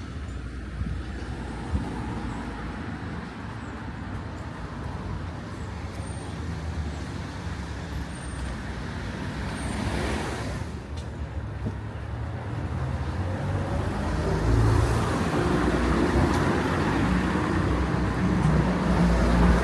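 Road traffic going past on a town street. One vehicle swells and fades about halfway through, and a heavier engine rumble grows louder near the end.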